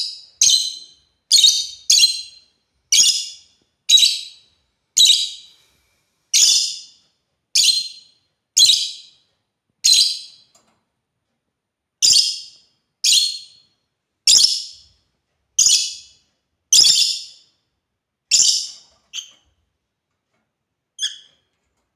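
African lovebirds chirping: short, shrill calls about once a second. There is a pause of over a second about halfway through, and two fainter chirps near the end.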